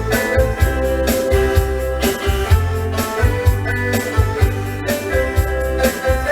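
Yamaha Electone electronic organ playing a bright pop tune: held chords and melody over the instrument's built-in drum rhythm, with a steady beat.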